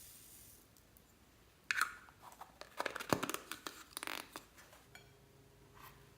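Clear slime loaded with beads and floam being squished and worked by hand, giving a run of crisp crackles and pops that starts about one and a half seconds in and lasts about three seconds.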